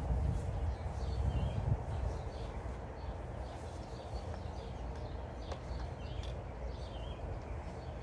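A small bird chirping over and over, short calls roughly once a second, over a low steady rumble that is loudest in the first two seconds.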